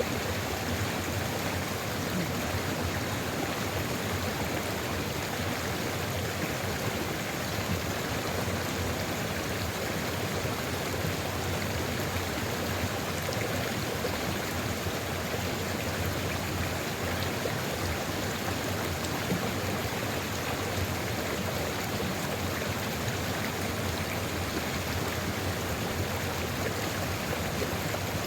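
Water of a sulfur river flowing steadily, an even, unbroken rush.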